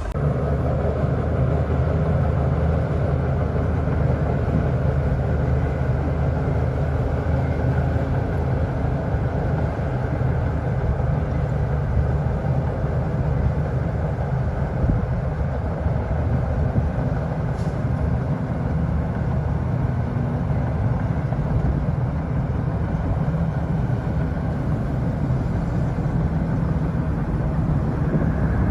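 Komatsu D41P bulldozer's diesel engine running steadily under load while it pushes sand, a constant low engine drone.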